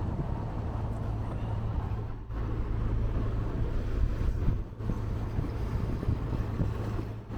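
A motor cruiser's engine running steadily under way, a constant low drone with water and wind noise over it.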